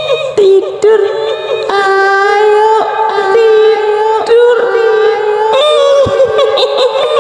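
A high-pitched female voice in the style of a kuntilanak ghost, singing or wailing a slow tune in long held notes, each about a second, after a brief wavering, giggling opening.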